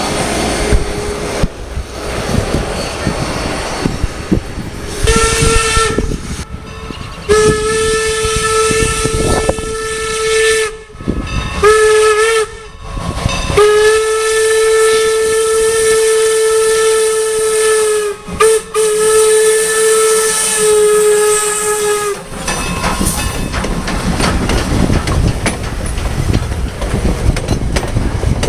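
Steam locomotive whistle blowing a series of blasts, some short and some several seconds long, over heavy wind buffeting on the microphone. The whistle stops a little past the three-quarter mark, leaving the wind and a low rumble.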